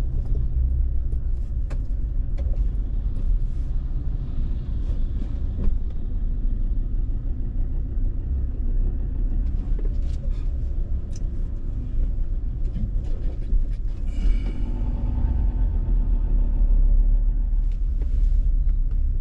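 Car driving on a road: a steady low rumble of engine and tyres with scattered light knocks. About fourteen seconds in, a pitched drone joins for a few seconds.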